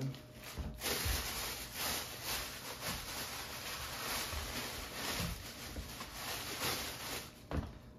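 Irregular rustling and light handling knocks over a steady hiss, as ingredients are picked up and moved about.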